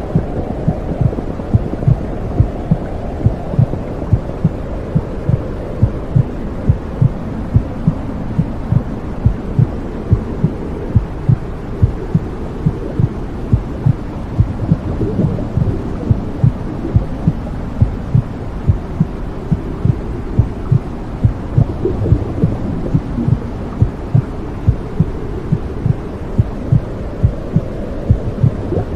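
Womb sound: a mother's heartbeat pulsing regularly, about two beats a second, over a steady low whooshing rumble of blood flow.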